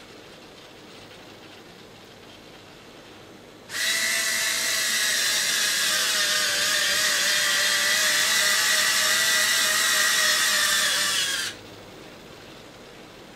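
Small geared electric motor whirring steadily for about eight seconds before cutting off suddenly, consistent with a model plane's servoless electric landing-gear retracts cycling.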